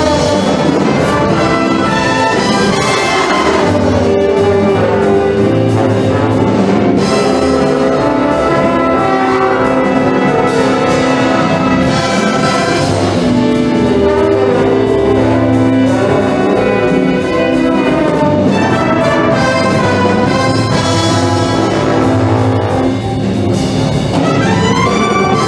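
Brass-heavy big-band music playing, with trumpets and trombones.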